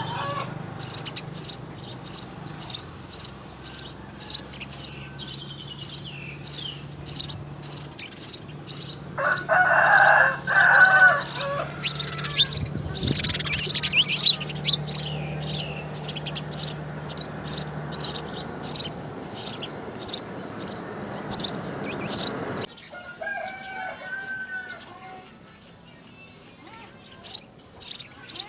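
House sparrows chirping in a steady, even run of short high chirps, about two or three a second. About a third of the way in, a rooster crows once for about two seconds over them. Near the end the chirping drops away, then starts again.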